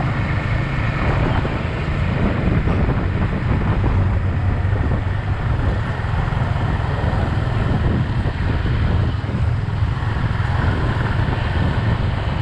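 Yamaha XSR 155's single-cylinder engine running steadily, with wind noise on the microphone.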